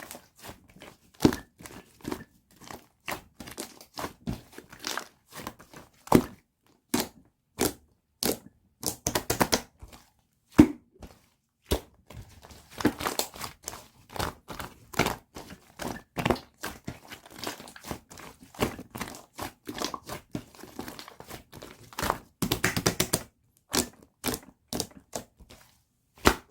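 Soft, fluffy light-pink slime being pressed and pulled by hand, giving irregular sharp pops and crackles, with a few quick flurries of crackling.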